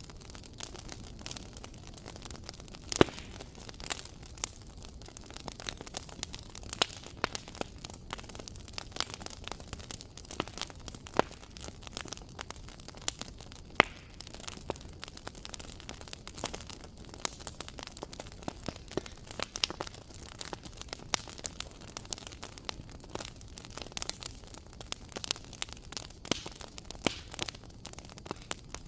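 Wood fire crackling: frequent, irregular sharp pops and snaps over a soft steady hiss, with two louder pops about 3 and 14 seconds in.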